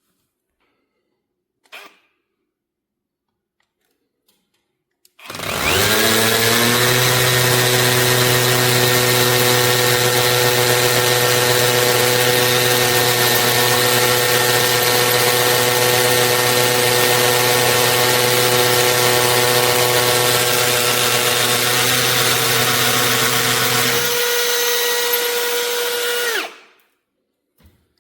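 Einhell TP-CD 18/80 Li-i BL cordless brushless drill-driver spinning up about five seconds in and running at a steady speed with a steady whine for about twenty seconds. Shortly before the end its deeper hum drops out, then it winds down and stops.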